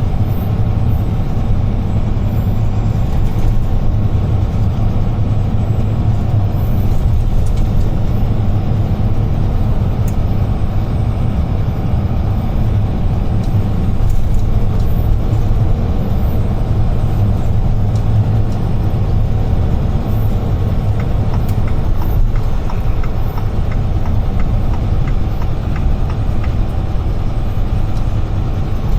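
UD Trucks Quon heavy truck heard from inside the cab while driving: a steady low engine drone with road and tyre noise.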